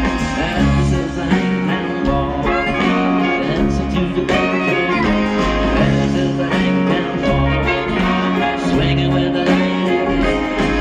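Acoustic string band playing a bluegrass-style song over a steady, repeating bass line.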